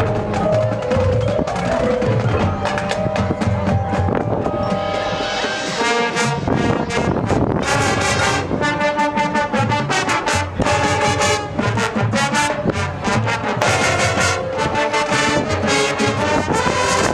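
Marching band playing: a quieter passage at first, then the brass comes in loud about five seconds in with short rhythmic hits over the percussion, while wind rumbles on the microphone.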